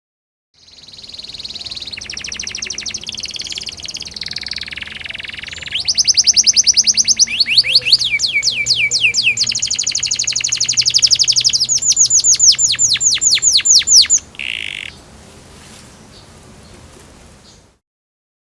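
Domestic canary in full song: long trills and rolls of fast, evenly repeated chirps, loudest through the middle. After a brief note it drops to a softer passage and then cuts off near the end.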